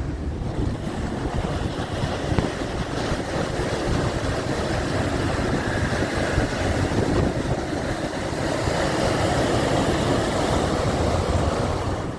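Steady rush of wind and water heard aboard a Rhine passenger boat under way, over the low rumble of its engine, with wind on the microphone. The rush grows somewhat louder about eight seconds in.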